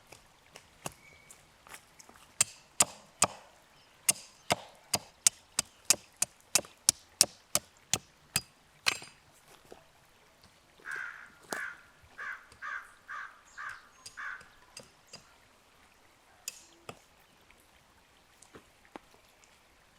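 A run of about twenty sharp chopping strokes, two or three a second, then quiet. About halfway through, a crow caws about eight times in quick succession.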